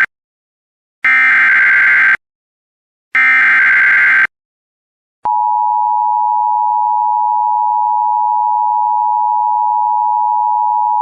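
Emergency Alert System broadcast: the last two of three short, screechy bursts of the digital SAME data header, then, about five seconds in, the steady, loud attention-signal tone begins.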